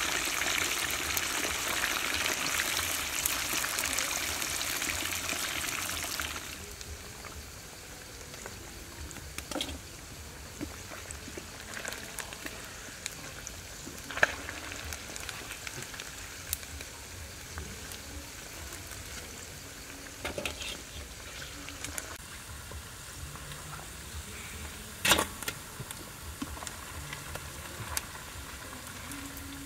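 Pieces of eel frying in hot oil in a pan over a wood fire: a dense, loud sizzle that drops suddenly after about six seconds to a softer, steady sizzle. A spatula knocks against the pan a few times over the quieter part.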